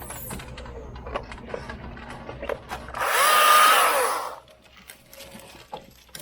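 Stihl MSA 220 TC battery top-handle chainsaw revving up and cutting a branch in one short burst about three seconds in: the motor whine rises, holds briefly and falls away as it stops. Scattered clicks and snaps come before it.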